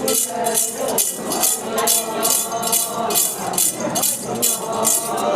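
Ponung dance rhythm: a metal jingle rattle, the leader's yoksa, shaken in a steady beat of about two and a half strokes a second. The dancers' voices carry on faintly underneath.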